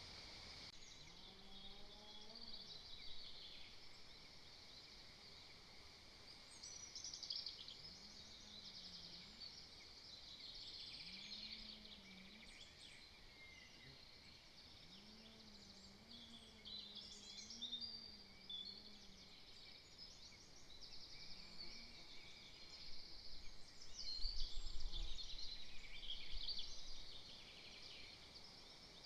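Small songbirds singing in woodland, several overlapping quick phrases. A low, wavering call repeats faintly in the background several times. Near the end comes a loud low rumble lasting a few seconds.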